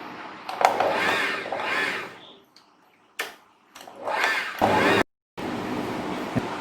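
Electric sewing machine motor run in two short bursts, each speeding up and slowing down in pitch.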